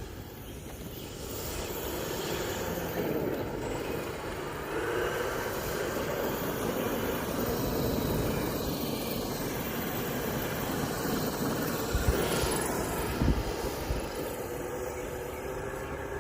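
Twin 120 mm electric ducted fans on a large RC jet truck, running with a whine whose pitch rises and falls as the throttle changes. Two short low thumps come about twelve and thirteen seconds in.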